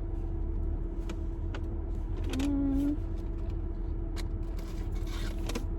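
Steady low hum of a car's interior with the engine idling, with a few light clicks and rustles from food packaging being handled. About two and a half seconds in there is a brief hummed "mm" from a person.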